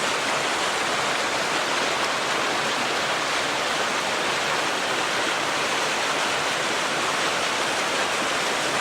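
Steady rush of a fast-flowing creek, with no breaks or changes.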